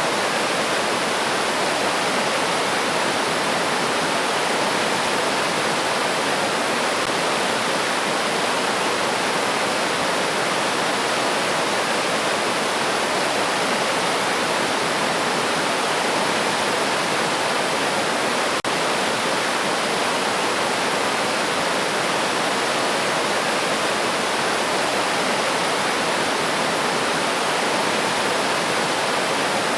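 Steady rushing of a river's flowing water, an even hiss with no change in level.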